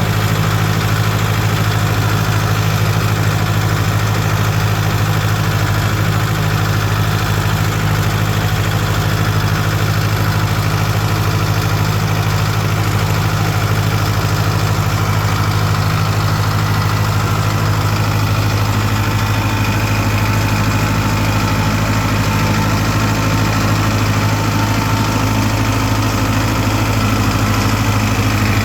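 Tractor engine running steadily with a deep, even hum; its tone shifts slightly about two-thirds of the way through.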